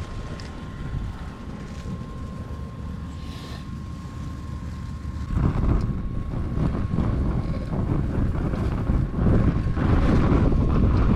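Strong wind buffeting the microphone in gusts, growing heavier about five seconds in.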